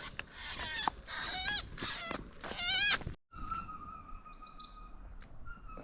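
Bird calls: two short, wavering squawks in the first three seconds, then an abrupt cut, followed by a few faint high chirps over a thin steady tone.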